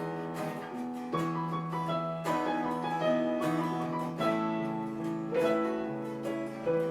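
Piano playing a country-style instrumental passage, struck chords about once a second and ringing on, with acoustic guitar behind it.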